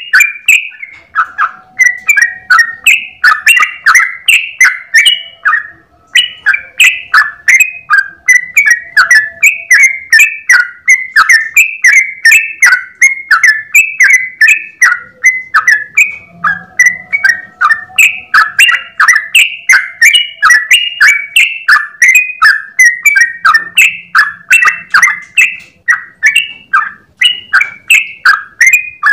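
Yellow-vented bulbul (trucukan) singing a long, unbroken run of loud, quick chattering notes, several a second, pausing briefly about a second in and again about six seconds in.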